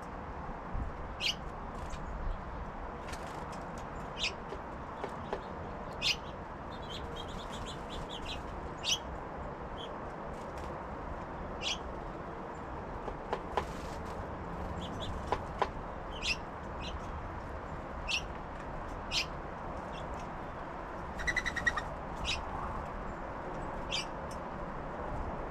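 Small songbirds at a feeder giving short, high chip notes every second or two, with one brief, harsher call near the end, over steady background noise.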